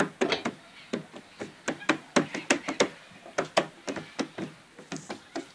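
A quick, irregular series of knocks and taps, several a second.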